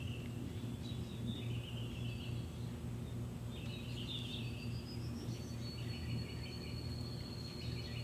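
Small birds chirping and singing in short repeated phrases, over a steady low hum.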